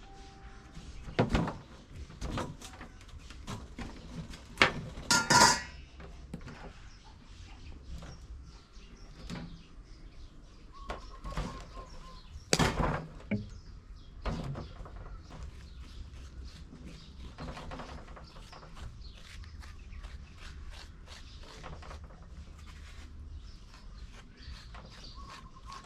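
Irregular knocks and clatter of hand food preparation, a few loud thuds among quieter, quicker taps, with a bird chirping briefly now and then.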